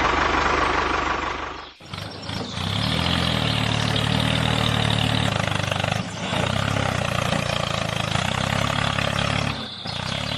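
Engine running at a steady idle. A different, noisier sound cuts off about two seconds in, and the engine sound takes over. It dips briefly partway through and drops away near the end.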